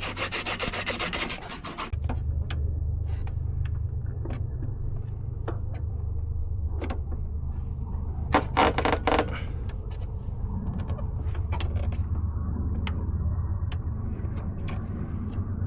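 Rapid, rhythmic rasping of a hand tool working a copper refrigerant line at the filter drier, stopping about two seconds in. A steady low hum then takes over, with scattered clicks and taps and a short cluster of louder knocks a little past the middle.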